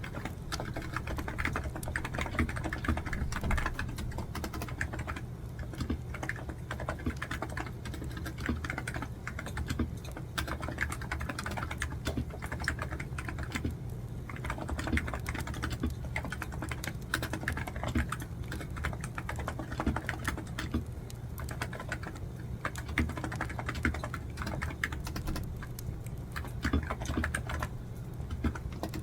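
Typing on a computer keyboard: quick runs of key clicks with short pauses between them, over a steady low background hum.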